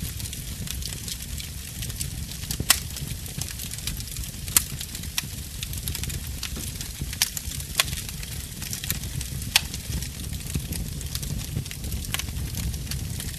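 Fireplace fire crackling, with sharp irregular pops a few seconds apart over a steady low rumble.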